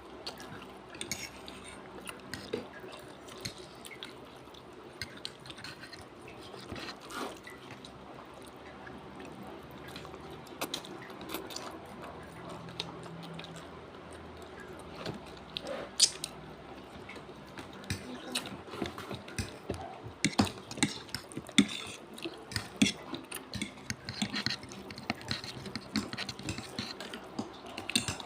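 Wet mouth sounds of someone eating saucy palabok noodles: small smacks, slurps and chewing clicks. They get busier about halfway through, with a few sharper clicks among them.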